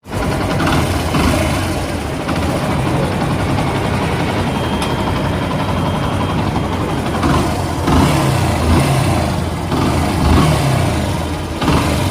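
Yamaha FZS/Fazer V2's single-cylinder engine running with a bad, rough mechanical noise from the flywheel end. The cause is the electric starter's one-way clutch behind the flywheel: its bolts have come loose and broken, and the thin metal sheet over it has broken into fragments inside the engine.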